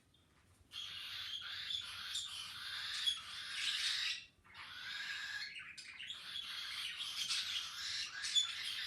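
Pet parrot squawking in long, noisy runs, with a short break about four and a half seconds in.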